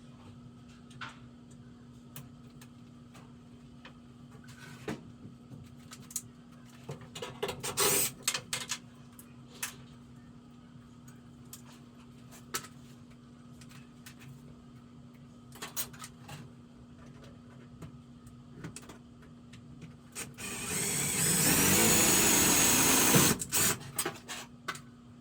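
Clicks and knocks of tools and parts being handled while a furnace switch is mounted, then a power drill/driver runs for about three seconds near the end, loudest of all. A steady low hum runs underneath.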